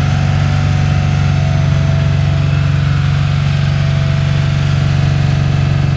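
1965 Porsche 911's air-cooled 2.0-litre flat-six idling steadily, heard close to the tailpipe.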